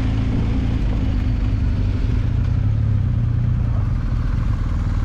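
Motorcycle engine running steadily while riding, under wind and road noise.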